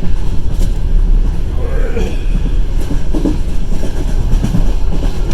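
Passenger train running at speed, heard from inside a carriage: a steady loud rumble of wheels on rails.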